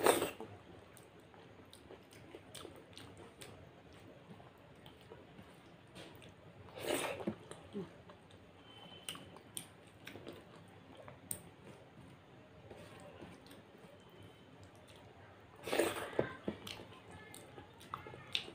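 Close-up chewing of a hand-eaten mouthful of moong dal khichuri, with wet mouth clicks and smacks throughout. Louder bites or smacks come at the start, about seven seconds in, and again around sixteen seconds in.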